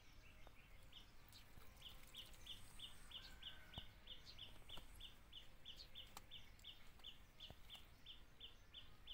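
Faint bird chirping: one short, high note repeated steadily about three times a second, starting about two seconds in, over quiet farmyard ambience with a few faint clicks.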